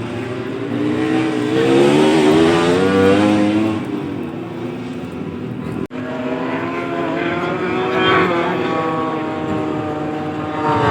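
MotoGP racing motorcycles on the circuit, their engines revving and rising in pitch as they accelerate through the gears, then falling off. There is a brief dropout in the sound a little before halfway, after which another engine note rises.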